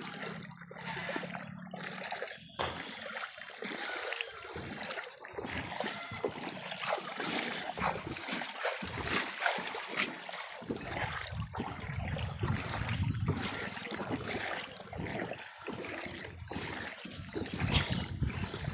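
Floodwater splashing and sloshing irregularly, as something moves through it.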